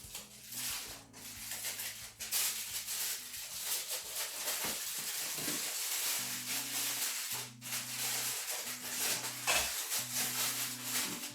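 Chicken pieces being turned and rubbed with seasoning on a baking tray: continuous rustling and scraping handling noise. Soft background music plays underneath.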